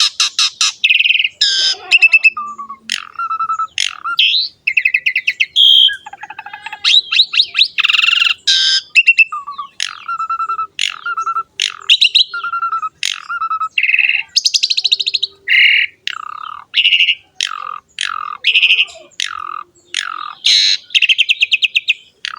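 Javan pied starling (jalak suren) in full song: a long, fast run of short, varied notes, mixing clear whistles with harsh, buzzy chatter, with barely a pause.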